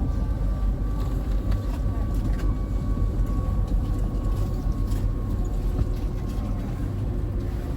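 Steady low rumble of a moving vehicle heard from on board, with a faint steady whine and a few light clicks.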